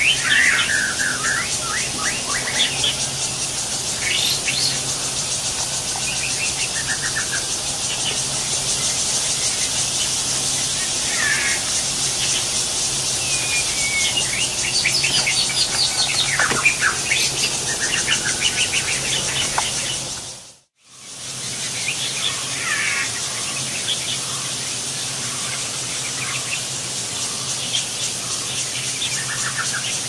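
Birds chirping and calling in short, scattered notes, some sliding, over a steady high hiss. The sound drops out briefly about two-thirds of the way through, then the chirping resumes.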